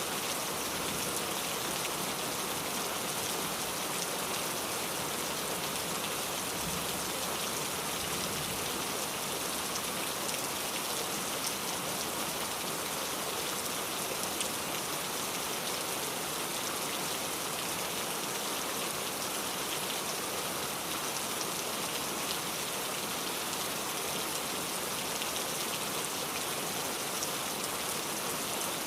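Steady rain falling, a constant even hiss with fine drop patter throughout.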